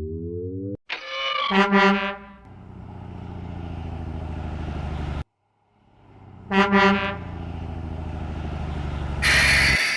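Truck sound effect: a horn honks about a second and a half in, then an engine runs steadily; after a short break the horn honks and the engine runs again, and a loud hiss comes near the end.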